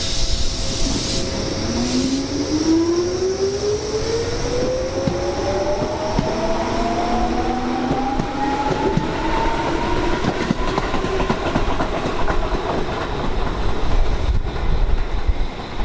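Electric commuter train accelerating, its traction motors giving a whine that rises steadily in pitch for several seconds before levelling off, with wheels clicking over the rail joints. Strong wind rumbles on the microphone.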